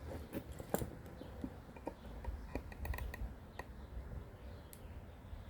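Scattered light clicks and taps, irregular and close together, from handling a soldering iron and a small circuit board during soldering.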